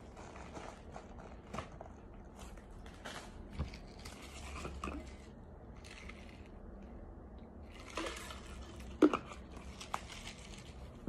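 Chewing and crunching on chunks of eating starch: a steady run of small crackles, with a few louder crunches about eight and nine seconds in.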